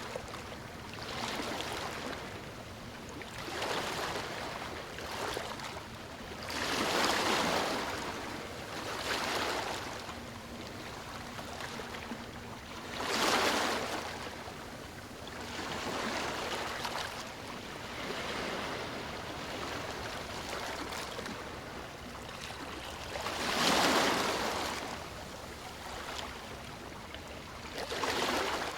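Sea waves washing onto a shore: a steady wash of surf with swells every few seconds, the biggest breaking about 7, 13 and 24 seconds in.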